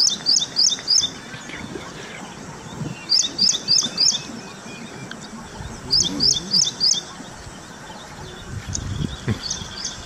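A bird calling in quick phrases of four sharp, high notes, three loud phrases about three seconds apart and a fainter one near the end.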